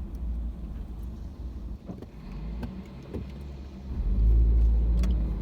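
Car cabin noise while driving: a steady low engine and road rumble that swells louder about four seconds in, with a few faint clicks.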